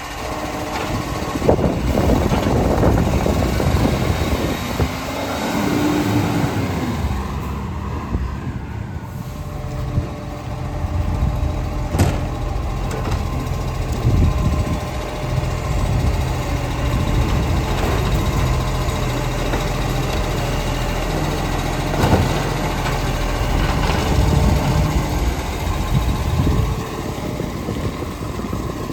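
Garbage truck engine running steadily. A brief rising-and-falling whine comes about six seconds in, and there are two sharp knocks about ten seconds apart.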